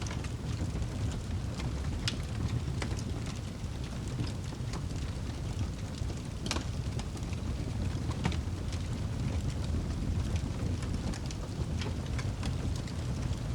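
Wood fire burning, a steady low rumble of flames with irregular sharp crackles and pops from the logs.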